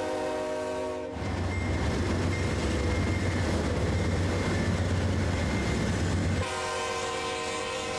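BNSF freight train's multi-chime air horn sounding a chord that cuts off about a second in. The diesel locomotive's low engine rumble and rail noise follow, and the horn sounds again near the end.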